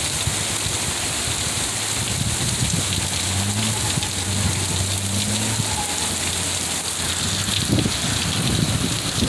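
Heavy rain pouring down steadily, a continuous even hiss of rain on surfaces during a downpour.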